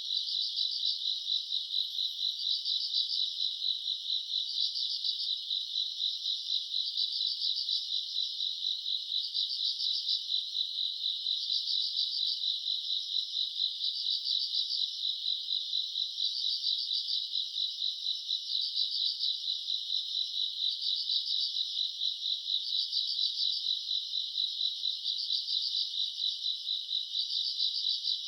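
Crickets and other grass insects chirping at night: a dense, steady chorus of high trills, with a louder trill coming back about every two seconds.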